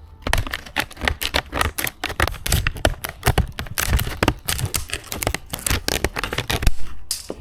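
Packaging of a tyre puncture repair kit being handled and opened: a rapid, dense crackling and clicking.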